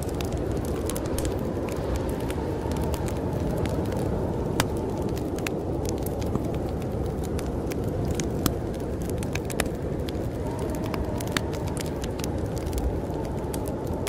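Wood fire crackling with scattered sharp pops over a steady low rush of snowstorm wind.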